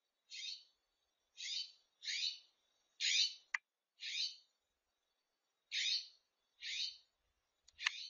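A small bird's harsh scolding calls, about eight rasping notes in a row, each sliding down in pitch. These are mobbing alarm calls aimed at a snake. A few sharp clicks fall between them, one about three and a half seconds in and two near the end.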